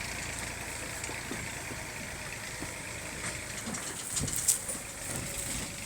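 Small farm tractor's engine running steadily as it drives along, with a few rattling knocks about four seconds in.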